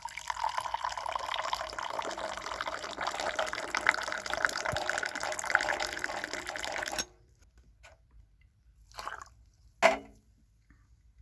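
Splashing, dripping water, busy and steady, that cuts off abruptly about seven seconds in; two short faint sounds follow near the end.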